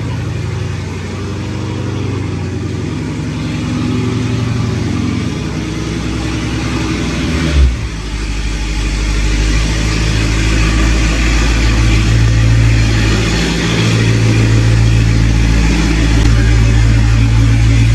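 A car engine running, with a sharp thump a little under eight seconds in, after which the engine sound grows louder and deeper.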